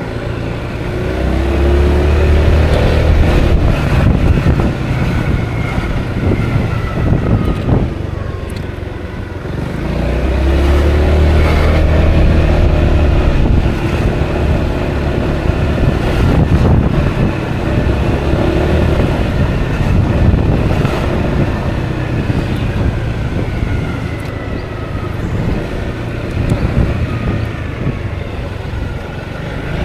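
Honda Forza 350 scooter's single-cylinder engine under way, with wind rushing over the microphone. It rises in pitch as it accelerates several times and eases off about eight seconds in and again near the end.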